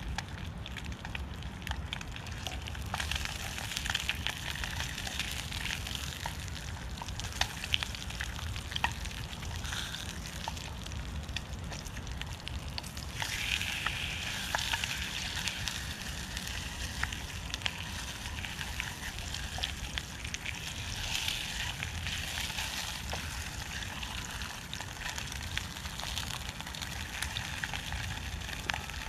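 Food frying in a pan over a wood-burning camp stove: a steady sizzle with frequent small pops and crackles, getting louder about 13 seconds in, over a low rumble.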